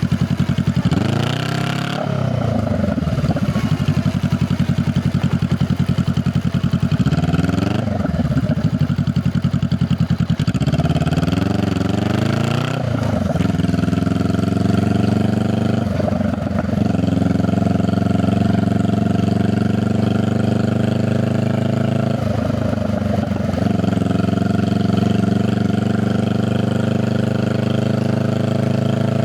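Honda Rebel 500's parallel-twin engine and exhaust under way, the note rising and dropping back at each gear change several times, then holding steadier and climbing slowly, with a couple of brief dips off the throttle.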